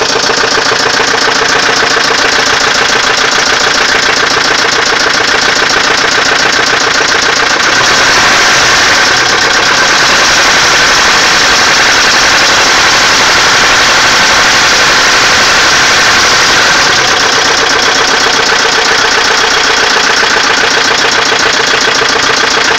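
Volvo 850's five-cylinder engine running with a rapid, steady knocking, a little louder in the middle stretch. It is an unexplained knock that the owner is asking how to fix.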